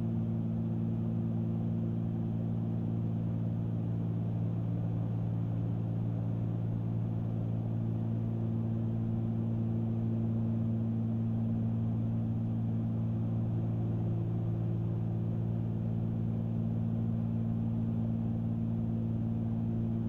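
Cessna 310's two six-cylinder piston engines and propellers in a steady in-flight drone, an even hum of several fixed tones that holds unchanged throughout.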